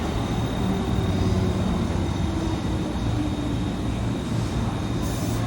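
Electric train running, a steady low rumble of wheels and motors with a thin, steady high tone above it.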